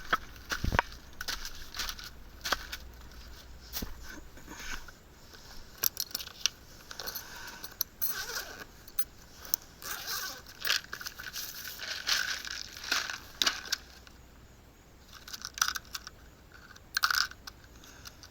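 Irregular clicks, rattles and rustling of small parts being handled: spade-connector jumper wires being got out and fitted to an air conditioner's low-pressure switch.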